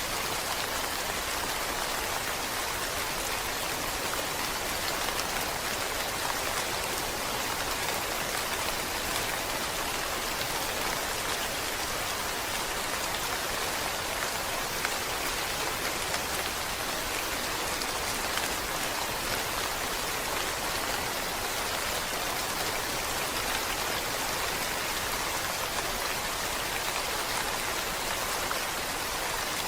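Steady rainfall: a dense, even hiss of many drops that keeps up without a break and without thunder.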